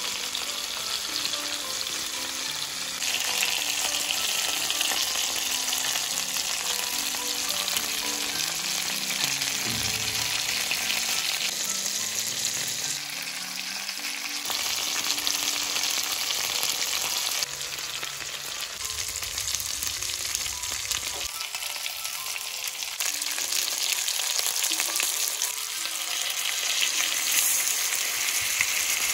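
Chicken breast frying in oil in a pan: a steady sizzle that shifts suddenly in level at several cuts. Faint background music underneath.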